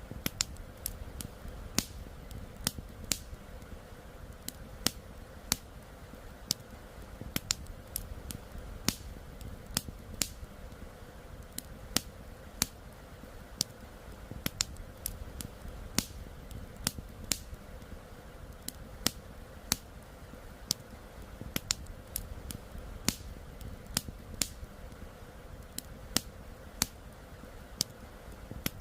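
Campfire crackling, with sharp pops and snaps coming irregularly, a few a second, over a low steady rumble.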